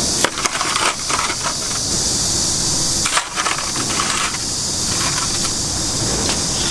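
Chicken-roasting kitchen work: a steady high hiss, with bursts of metal clinks and clatter about half a second in and again around three seconds in.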